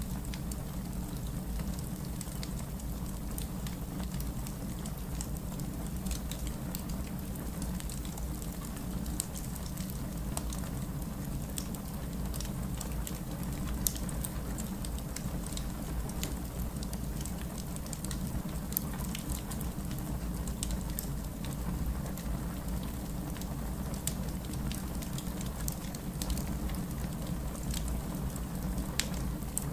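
Wood fire burning in a fireplace: a steady low rumble of flames with frequent small crackles and pops scattered throughout, a few of them sharper.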